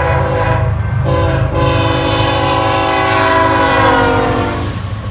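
Locomotive air horn sounding a chord of several notes, a short blast and then one long blast that falls in pitch toward the end, over the deep rumble of the train.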